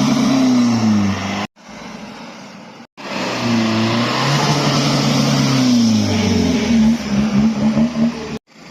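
Car engine revving: the pitch falls back from high revs and the sound cuts off abruptly to a quieter stretch. The engine then comes back loud, rising and falling again, and ends in a run of quick throttle blips before cutting off.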